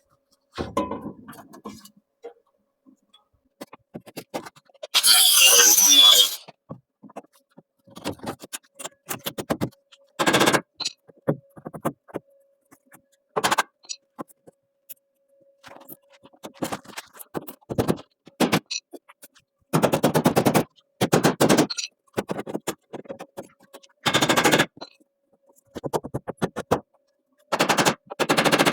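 Short bursts of rapid crackling and clattering from metalworking on a car body panel, each lasting up to about a second with pauses between them. A longer loud hiss comes about five seconds in.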